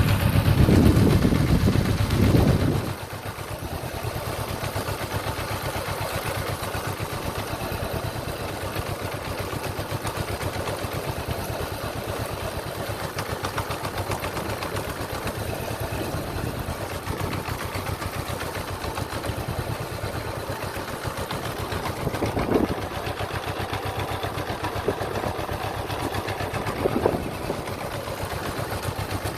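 Honda CBR motorcycle engine running, louder for the first couple of seconds and then settling to a steady idle, with two short throttle blips in the second half.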